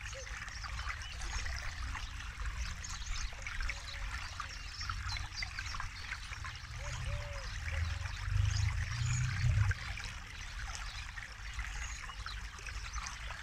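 Forest river flowing and trickling over stones, a steady splashing babble. A low rumble underneath swells for a couple of seconds about eight seconds in.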